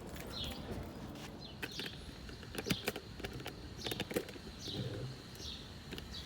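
A small bird chirping over and over, short falling chirps about a second apart, with a few sharp metallic clicks and taps from hand tools around the middle.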